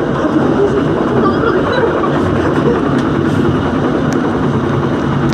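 Dhoho passenger train running along the track: a loud, steady rumble of wheels and carriage on the rails, with a few faint clicks.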